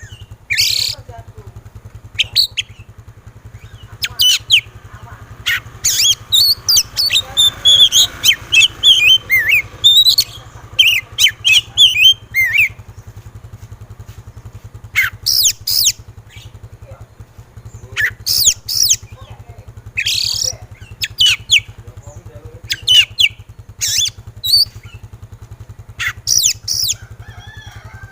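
Oriental magpie-robin (kacer) singing in the agitated 'emosi' style: loud bursts of sharp whistles and harsh notes, with a fast warbling run of phrases about a third of the way in and a few short pauses. A steady low hum runs underneath.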